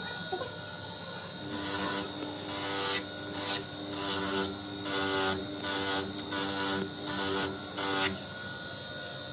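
A hand file rasping across metal in about nine strokes, starting a second and a half in and stopping around eight seconds, each stroke carrying a faint metallic ring, over a steady background hum.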